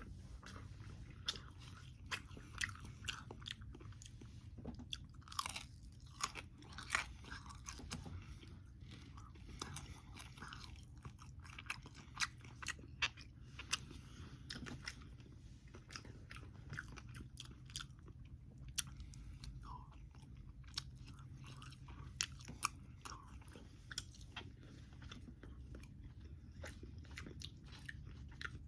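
Close-miked chewing of air-fried bacon: steady crunching with many sharp, irregular crackles as the crisp strips are bitten and chewed.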